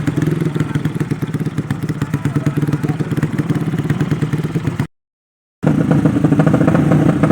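Yamaha 5TP single-cylinder four-stroke motorcycle engine idling steadily, set up for a sleep-engine contest in which the engine is held at the lowest idle it will keep. The sound cuts out completely for under a second about five seconds in, then resumes unchanged.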